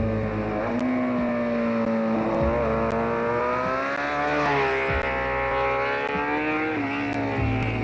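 Rally car engine running hard on a timed stage, its pitch climbing and falling, with sudden drops about five and seven seconds in like gear changes.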